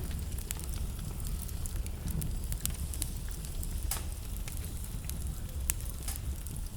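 Wood fire burning in a fireplace, crackling with sharp irregular pops over a steady low rumble.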